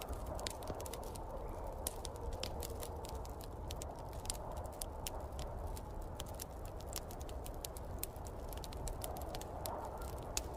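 Wood fire crackling in a fireplace, with frequent irregular sharp pops and snaps, over a steady low rush of snowstorm wind.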